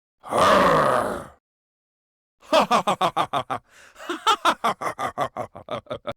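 Robosapien V2 robot's recorded voice making non-word vocal sounds: a short grunt-like exclamation, then a long run of rapid staccato syllables like a chuckle, about seven a second with a brief break partway through.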